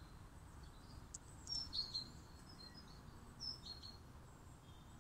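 Small birds chirping: short high calls, a cluster about one and a half seconds in and another around three and a half seconds, over a faint low outdoor rumble.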